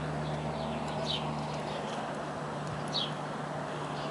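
Outdoor ambience: a small bird gives short, high, falling chirps about every two seconds over a steady low hum and a background hiss.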